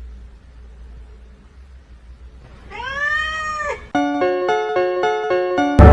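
A cat meowing once, one drawn-out meow that rises and then falls in pitch, about halfway in after a quiet stretch. It is followed by a quick run of musical notes near the end.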